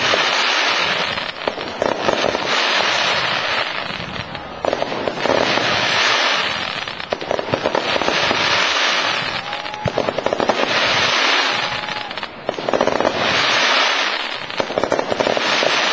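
Aerial fireworks bursting one after another in a show, each burst a crackling shower of pops lasting about a second, about every one to two seconds.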